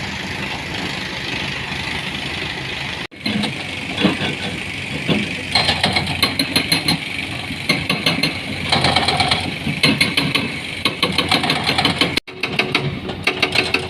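Heavy construction machinery engine running steadily. After a cut about three seconds in, it is joined by irregular clattering and knocking.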